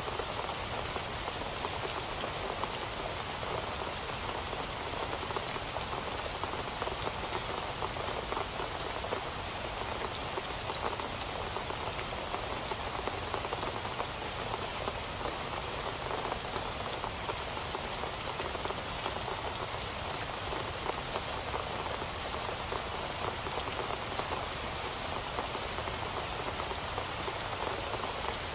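Steady rain falling on a surface, a dense even patter of many individual drops at a constant level.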